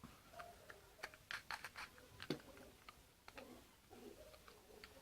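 Faint irregular clicks and small knocks from handling and adjusting a drill-bit sharpener attachment, with a cluster of clicks a little over a second in.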